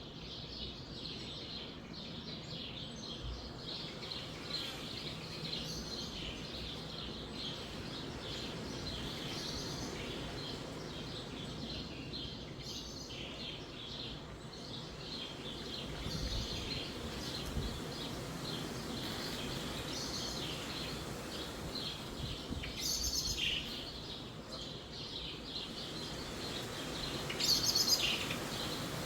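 Many small birds chirping busily and without pause over the low rush of wind through trees, with a few louder, sharper calls near the end.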